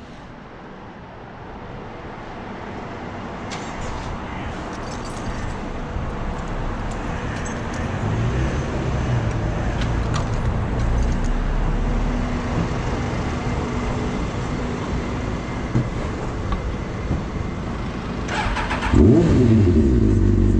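Road and engine noise from passing motor traffic growing steadily louder. Near the end a vehicle engine gets suddenly louder and revs up before holding a steady note.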